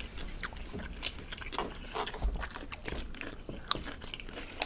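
Close-miked chewing and biting of a meal of rice, kielbasa sausage and cucumber, heard as a run of irregular short clicks.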